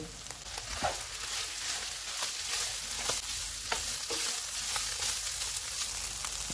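Beef mince sizzling in a frying pan over medium-high heat while it is stirred, with the spatula scraping the pan every second or so. This is the final browning of the keema filling.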